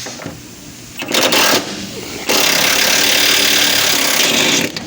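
Impact wrench hammering on the body mount bolts of a GMC Denali to break them loose: a short burst about a second in, then a longer run lasting until near the end.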